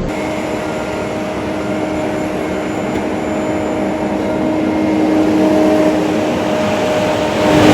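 Engine-driven machinery running steadily with a constant whine, growing louder near the end.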